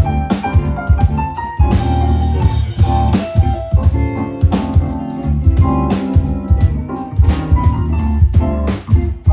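A band playing at a sound check: drum kit with frequent hits, guitar and keyboard together, loud and steady.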